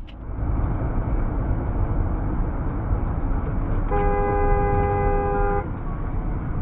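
Dashcam recording of a car driving, with steady heavy road and engine rumble. A car horn sounds once, about four seconds in, for about a second and a half.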